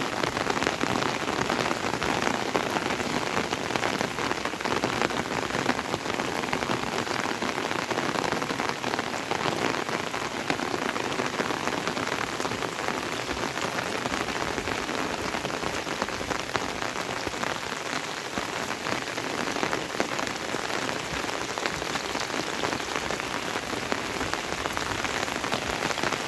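Steady heavy rain, a dense, even patter of drops.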